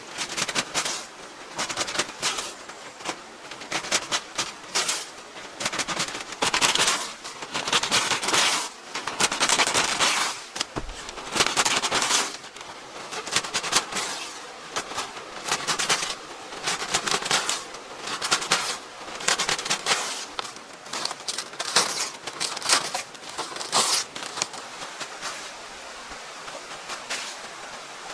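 Hand tools working wood: a long run of irregular sharp knocks and cracks, with longer rasping stretches between about six and twelve seconds in.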